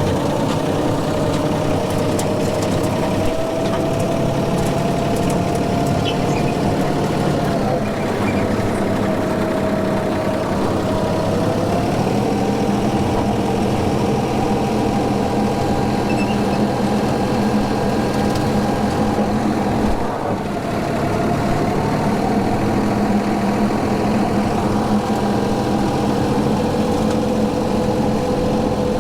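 Tractor engine running steadily while mowing with a brush hog rotary cutter, its pitch stepping up slightly a couple of times.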